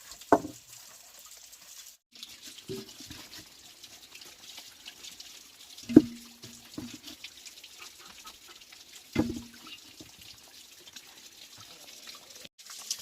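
Water splashing and trickling, with a few sharp knocks; the loudest knock comes about six seconds in.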